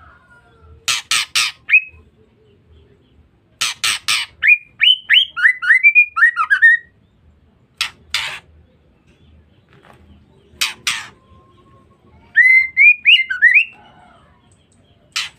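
Female white-rumped shama calling: harsh rasping chatter notes in quick groups of two or three, alternating with runs of short, rising whistled notes, repeated several times.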